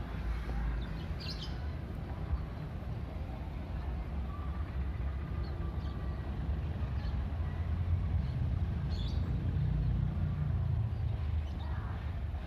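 Diesel locomotive of an arriving passenger train, a steady low engine rumble that grows a little louder partway through as the train draws into the station.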